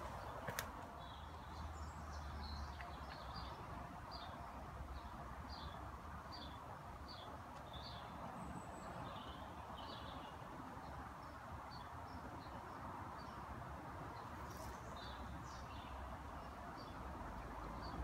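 A small songbird chirping, a series of short high notes repeated about one to two a second for several seconds, then a few more near the end, over a steady low background rumble.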